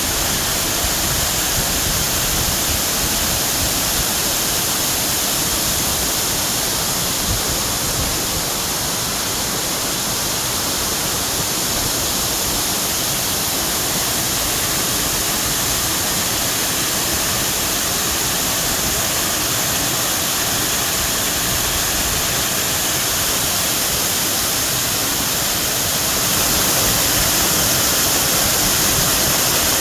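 Steady, even rushing noise with no breaks, a little louder and brighter for the last few seconds.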